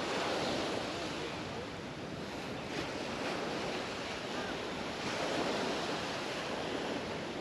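Small Mediterranean waves washing up the beach, swelling near the start and again about five seconds in, with some wind on the microphone.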